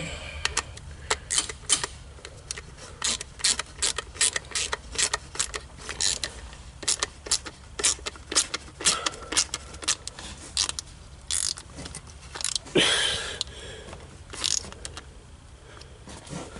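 Irregular sharp clicks and clacks of hand tools and parts as a distributor cap and its wires are worked on, with a longer scrape about 13 seconds in.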